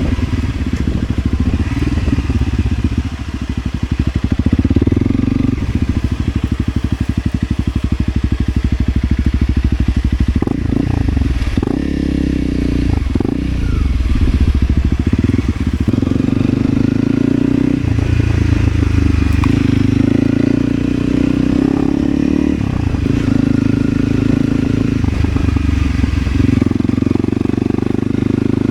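Motorcycle engine running while riding off-road, revs rising and falling with the throttle. A few knocks come around ten to thirteen seconds in.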